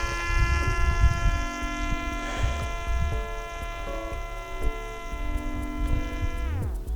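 Parrot Disco's electric motor and propeller whining at a steady pitch, then sliding down in pitch near the end as it throttles back, over a low rumble.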